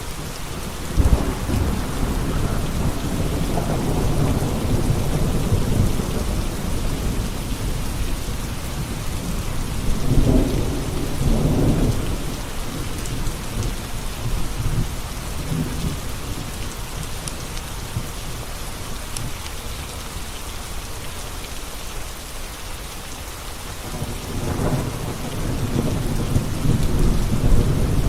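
Steady rain with rolling thunder. Low rumbles swell about a second in, again around ten seconds in, and once more near the end.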